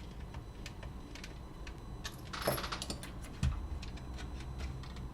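Small clicks and ticks of a screwdriver and tiny screws being handled while the plastic case of a cassette Walkman is screwed shut. There is a short rattle about two and a half seconds in and a soft thump about a second later.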